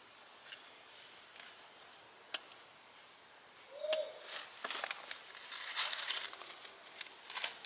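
Hands digging through loose raised-bed soil and sweet potato vines: faint scattered ticks at first, then a run of rustling, crackling scrapes from about halfway through.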